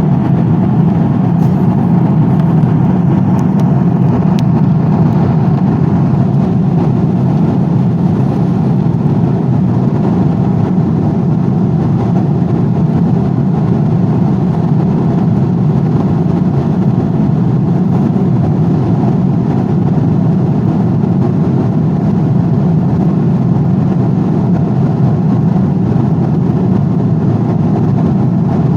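Steady aeroplane cabin noise in flight: an even, deep rushing drone that holds the same level throughout.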